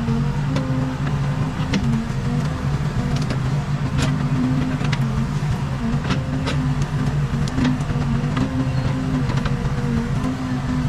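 Case 580 Super K backhoe loader's diesel engine running steadily under working load, its pitch wavering a little, with scattered sharp clicks and knocks throughout.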